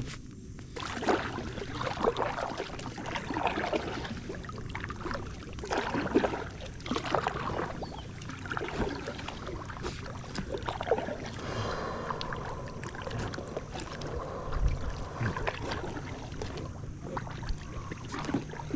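Paddling an inflatable packraft: paddle strokes in the water about once a second, over a steady low hum.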